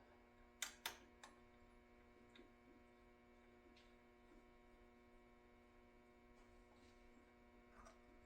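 Near silence with a steady electrical hum. Two sharp clicks come a little under a second in, followed by a fainter one.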